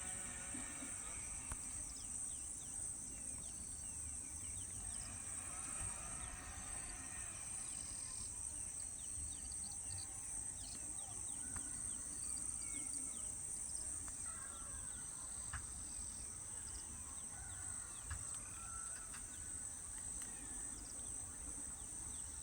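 Steady high-pitched insect trill running throughout, with many faint, short bird chirps scattered over it.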